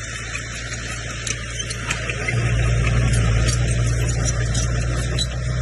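Komatsu bulldozer's diesel engine running under load, working harder about two seconds in, with light rattling over it.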